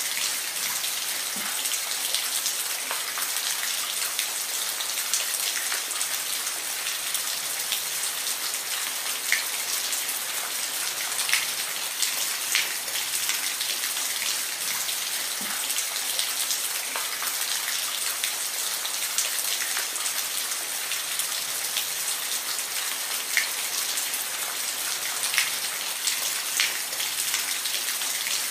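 Steady rain falling, a constant hiss with scattered individual drops ticking sharply on a surface.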